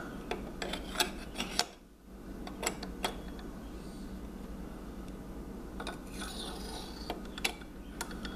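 Handling noise as lamp parts are worked on by hand: scattered clicks and taps, most of them in the first three seconds, and a short stretch of rubbing about six seconds in, over a steady low hum.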